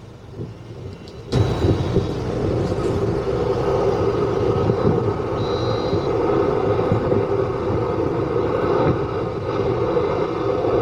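Steady loud rumble of jet aircraft engines, coming in suddenly about a second in and holding.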